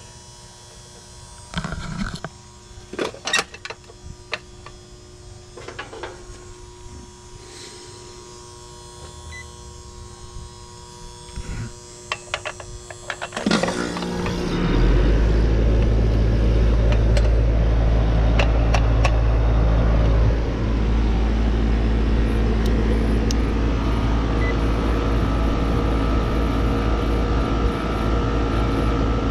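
A few clicks and knocks over a steady electrical hum, then about fourteen seconds in an air conditioner's outdoor condensing unit starts up. Its compressor and condenser fan run on with a loud, steady, low drone, on a newly fitted capacitor and a freshly cleaned coil.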